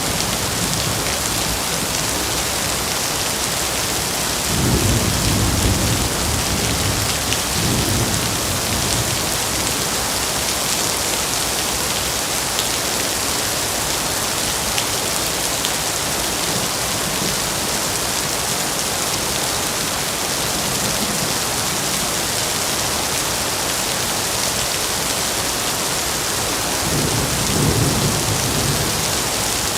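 Steady heavy rain with rolling thunder. The thunder swells about four seconds in, rumbles again briefly a few seconds later, and rolls once more near the end.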